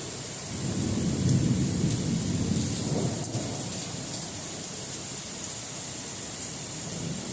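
Heavy rain falling steadily, with a low roll of thunder that swells about a second in and fades away by about three seconds.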